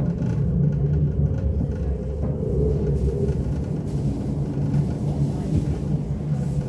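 Elizabeth Line Class 345 electric train running along the line, heard from inside the carriage: a steady low rumble of wheels on track with a faint thin tone above it.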